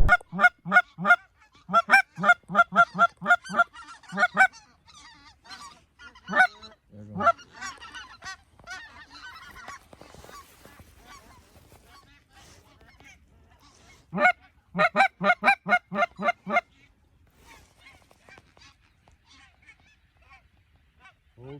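Goose honking: quick, evenly spaced runs of short honks, about four a second, with fainter, overlapping honks of more birds in between.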